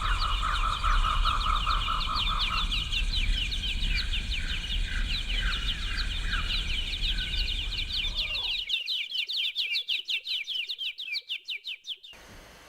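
Birds chirping: a fast, even run of short high chirps, several a second, that stops shortly before the end.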